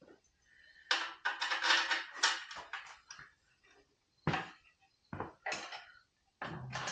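Small metal parts clinking and rattling as hardware is handled against a steel tool box: a dense clatter lasting about two seconds, then a few separate clanks.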